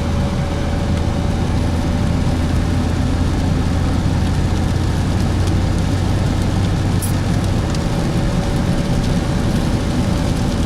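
A car driving along, a steady mix of engine drone and road or water hiss; the low drone eases off about three-quarters of the way through.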